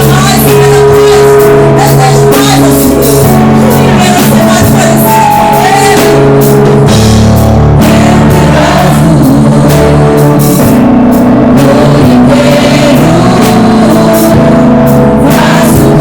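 Live worship band music: singing over drums, guitar and sustained keyboard-like chords, loud and steady throughout.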